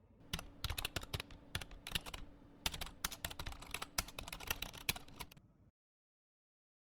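Typing on a keyboard: quick, irregular clicks for about five seconds that stop abruptly, followed by silence.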